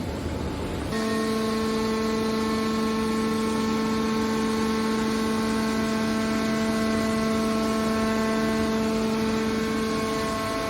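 Steady machine hum with a clear pitch and several overtones. It starts suddenly about a second in over a background of machinery noise and holds level, with some of its tones dropping out near the end.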